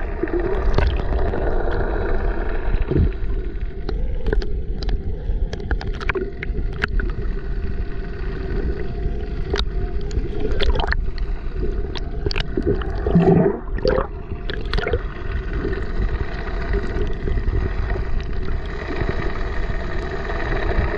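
A small boat's motor drones steadily under a low rumble, with water sloshing and slapping against the hull in sharp splashes every second or two.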